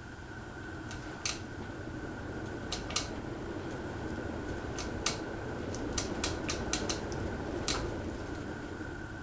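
Casablanca Panama 2 ceiling fan running, a steady rush of air with a constant high hum, swelling and easing slightly. About a dozen sharp, irregular clicks sound over it, most of them in the second half.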